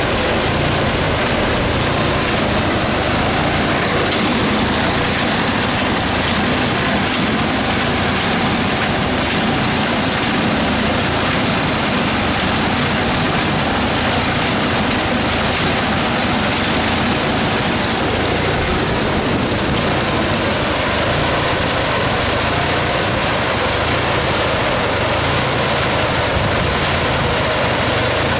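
Case 446 garden tractor's 16 hp Onan B43 twin-cylinder engine running steadily near idle, turning a hay elevator through its 540 PTO attachment, with the elevator's machinery running along with it.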